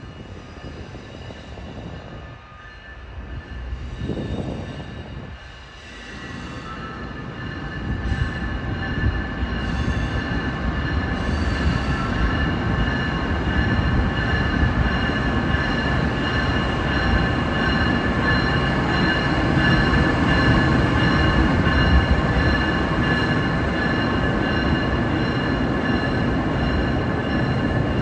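Amtrak passenger train rolling slowly through the station, its wheels squealing against the rails in several steady high tones over a low rumble. It grows louder from about six seconds in.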